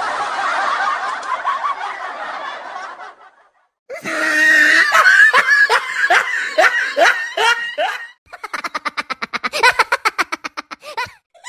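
Three meme laughing sound effects one after another, each stopping abruptly. A dense laugh for about three seconds, then a loud laugh in rhythmic 'ha-ha' pulses, then a fast, rapid-fire snicker near the end.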